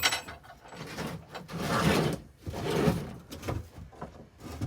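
Wooden cabinet door being handled and fitted: a sharp knock at the start, two stretches of wood scraping and rubbing in the middle, and a smaller knock near the end.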